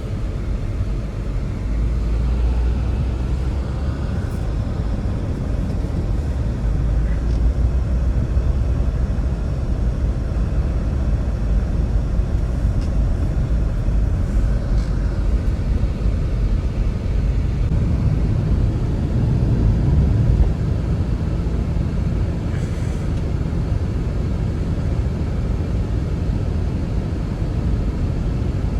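Steady low rumbling roar of wind, with a few faint ticks over it.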